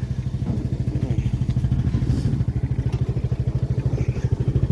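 A vehicle engine running with a steady, even pulsing beat while on the move.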